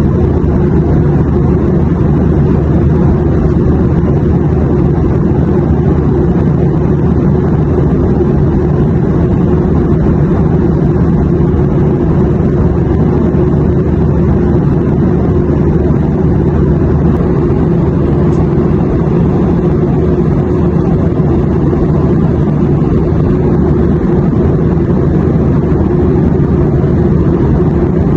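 Airplane in flight: a steady, even low drone that does not change in level or pitch.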